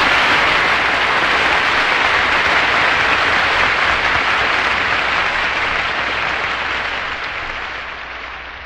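Audience applauding at the end of a steelband piece, steady at first and slowly dying away toward the end.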